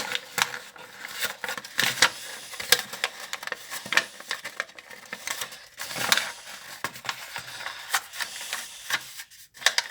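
A sheet of paper being handled, folded and pressed flat by hand: irregular crinkling and sharp crackles close to the microphone.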